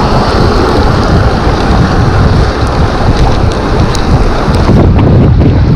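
Heavy wind buffeting on the microphone of a moving e-bike rider, a loud steady rush with a strong low rumble.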